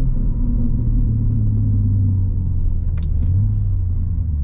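BMW G80 M3's twin-turbo straight-six with a single midpipe exhaust, running under way as heard from inside the cabin: a steady low drone whose pitch drifts slightly.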